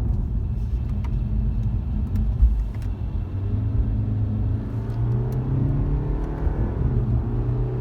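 Road rumble and engine noise inside the cabin of a 2017 BMW 520d, with its 2.0-litre four-cylinder diesel under load. The engine note comes up about three and a half seconds in and rises a little as the car accelerates.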